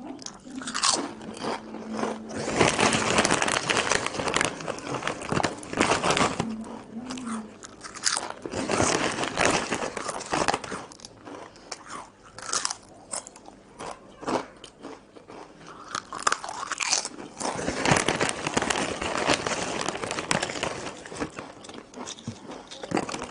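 Potato chips being bitten and chewed close to the microphone, with several surges of loud, dense crunching separated by quieter chewing.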